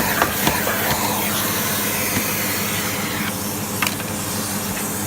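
Vacuum cleaner running steadily, a loud airy suction hiss over a motor hum, with a few light knocks as the tool touches the casing.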